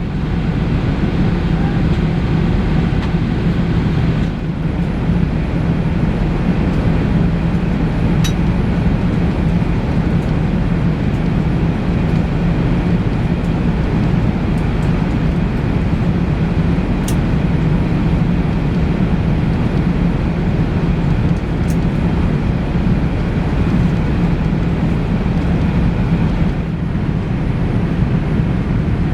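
Steady cabin noise inside an Airbus A380 airliner: a constant low hum and rush of air, with a few faint ticks.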